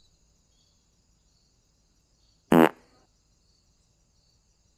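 Near silence broken about two and a half seconds in by one short, loud buzzing blast.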